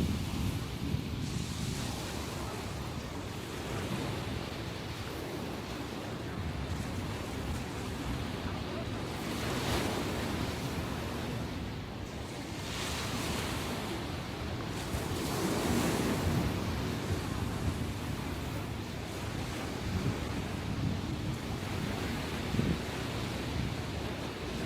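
Ocean waves washing ashore in swells every few seconds, with wind buffeting the microphone.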